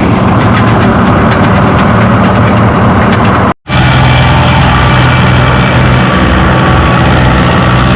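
Loud, steady running of pulling-tractor engines, cutting out completely for an instant about three and a half seconds in.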